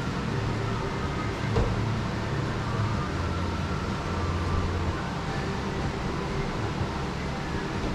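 Steady low hum and background noise, with one faint knock about one and a half seconds in.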